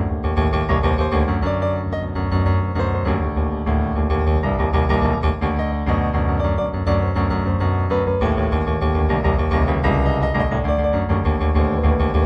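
Background piano music, with many notes sounding together and new notes struck every fraction of a second.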